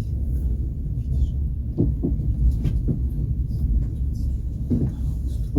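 Passenger train rolling on the rails, a steady low rumble with a few short knocks from the wheels and carriage.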